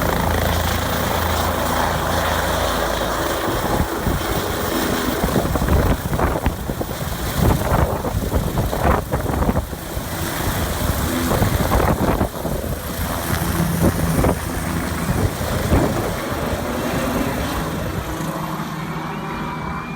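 Helicopter air ambulance running, its rotor and engine noise loud and uneven throughout.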